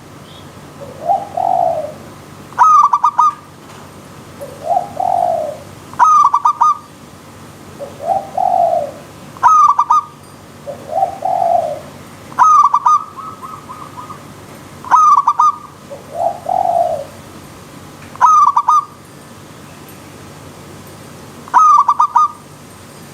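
Zebra dove (perkutut) cooing in repeated phrases about every three seconds. Each phrase is a quick run of clipped, sharp notes followed by a lower, rounded coo. A steady faint hiss runs underneath.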